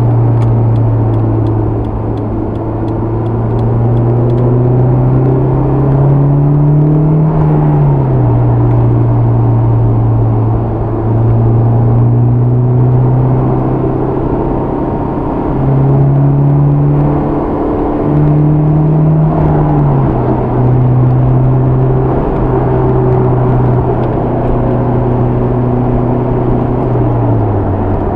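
Honda S2000's four-cylinder engine and Milltek dual exhaust heard from inside the closed cabin while driving, over road noise. The engine note climbs and falls several times, with a few sudden drops in pitch.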